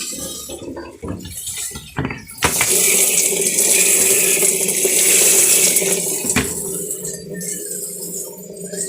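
Water running hard, a loud hiss that starts with a click about two and a half seconds in and eases off with another click about six seconds in, then keeps running more quietly.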